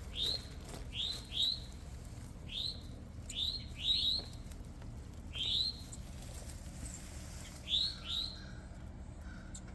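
A songbird chirping: short high chirps, each a quick rise and fall in pitch, repeated about ten times with uneven gaps, some in quick pairs.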